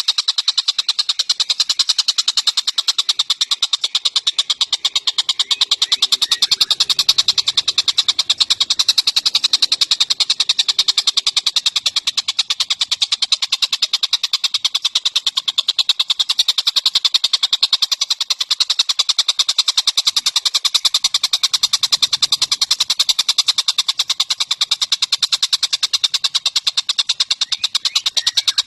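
Tengek cililin songbird singing a long, unbroken run of rapid, high, repeated notes at an even pace.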